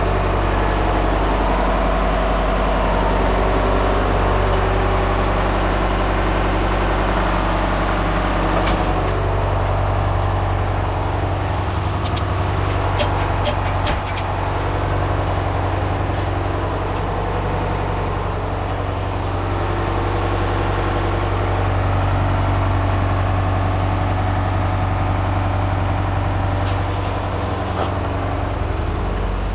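2000 Blue Bird CSFE bus engine idling steadily, with a few sharp clicks about halfway through.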